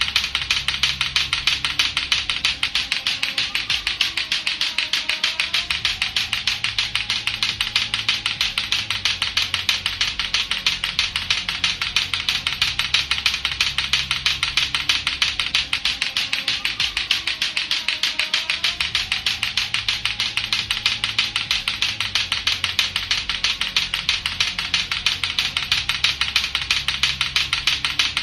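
Latto-latto clacker toy, two hard plastic balls on a string knocking together in a fast, steady clacking rhythm, several clacks a second without a break.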